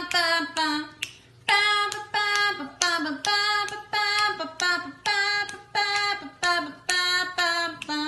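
A high-pitched voice singing short, quickly repeated notes of stepping pitch, with a brief pause about a second in.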